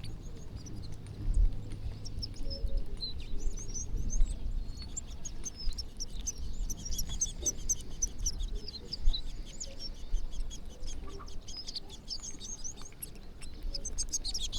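A flock of small birds chirping all at once while feeding: many short, high calls overlapping without a break, over a low rumble.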